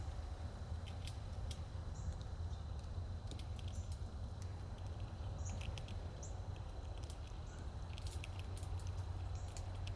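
Squirrels feeding, heard as scattered sharp clicks and scratches, with a few short, faint, high bird chirps. A steady low rumble underlies it all.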